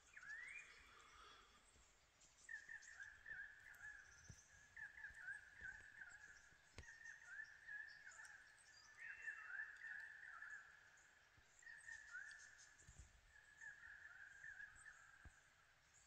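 Faint bird calls: a single rising note just after the start, then from about two and a half seconds a long run of short chirping notes, all at much the same pitch.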